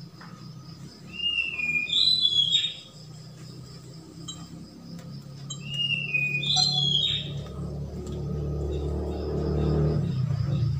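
A bird whistling a short two-note call, each note falling in pitch, given twice about five seconds apart, over a steady low hum. A low rumble builds near the end.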